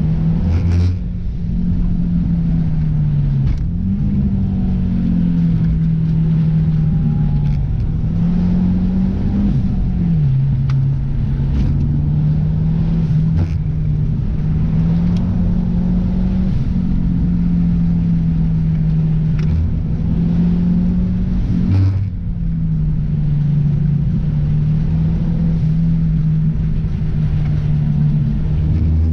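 Car engine running under way, its note rising and falling with the throttle, with brief breaks in the sound about a second in and again at about 22 seconds.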